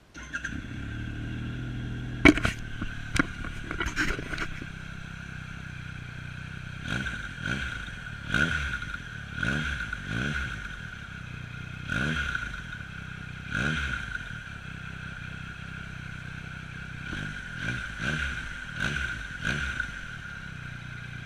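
2014 Triumph Explorer 1200's three-cylinder engine through a Fuel Exhaust F1R aftermarket exhaust, idling steadily and blipped on the throttle again and again, the revs rising and falling with each blip. A few sharp cracks come about two to four seconds in.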